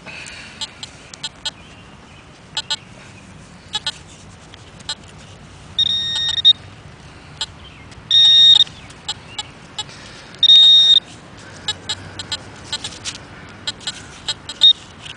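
Handheld metal-detecting pinpointer sounding three steady, high-pitched beeps of about half a second each, a couple of seconds apart: it is signalling a metal target, another coin in the hole. Short clicks and scrapes of digging in the soil run between the beeps.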